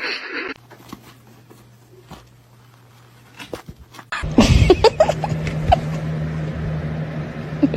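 A pet's short pitched calls with scattered clicks over a steady low hum, starting about four seconds in after a quieter stretch with a faint hum.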